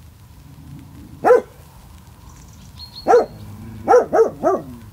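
Large dog barking five times: a single bark about a second in, another about three seconds in, then three quick barks in a row near the end.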